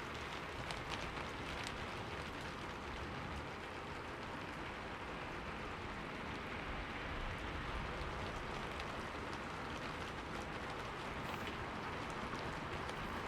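Steady rain falling and pattering on surfaces, an even hiss with fine scattered drop ticks.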